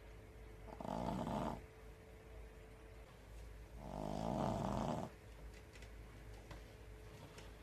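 Pekingese dog snoring in its sleep: two snores, a short one about a second in and a longer one about four seconds in.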